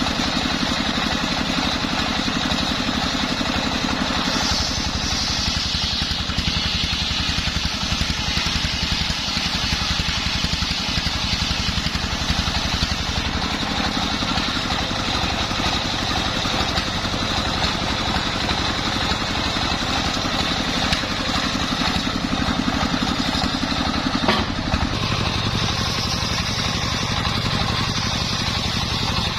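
The engine of a homemade circular saw rig runs steadily. A higher hiss comes in twice, briefly about four seconds in and again near the end.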